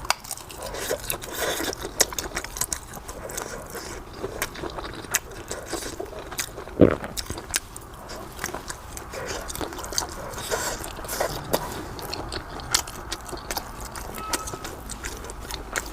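Close-miked chewing and mouth sounds of a person eating, with many small wet clicks throughout and one louder low knock about seven seconds in.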